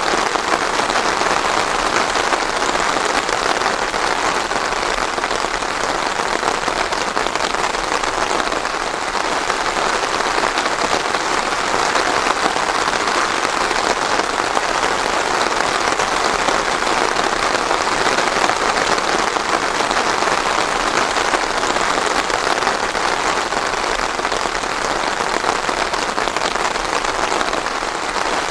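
Steady heavy rain falling on a surface, a dense even patter with no thunder.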